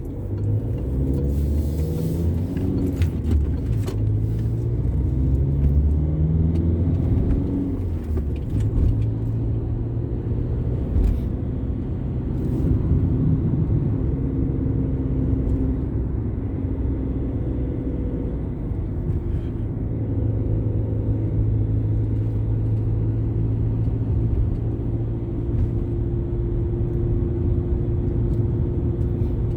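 Car engine and road rumble heard from inside the moving car. The engine note climbs in steps for about the first eight seconds as the car gathers speed, then runs steadily.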